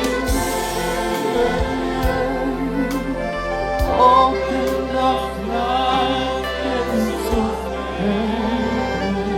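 Gospel worship music: a choir sings wordless sustained notes over an orchestral backing.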